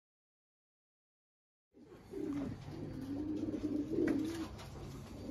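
Dead silence for the first couple of seconds, then racing pigeons cooing, one wavering coo after another.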